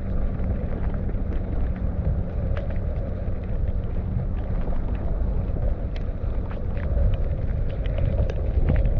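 Mountain bike descending a wet trail: steady low rumble and wind rush on the microphone, with scattered clicks and rattles from the bike.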